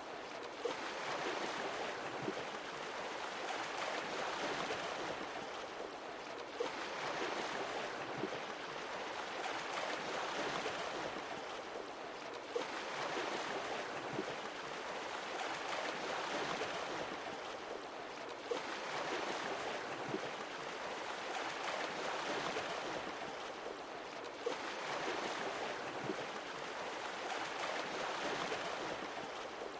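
Sea waves washing onto a shore, the surf swelling and falling back about every six seconds.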